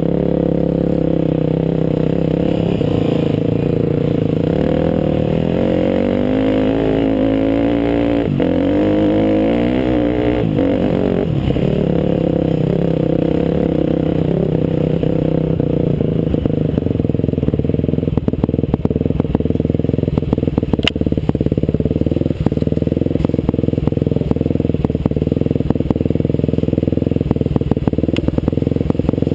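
Off-road motorcycle engine running as the bike is ridden, its pitch rising and falling with the throttle for a few seconds. Later the engine steadies, with a run of clatter and knocks over it.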